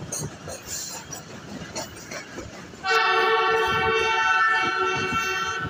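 Train horn sounding one long, steady blast of several tones together, starting about three seconds in and held for nearly three seconds. Before it, the irregular clatter of the train running along the track.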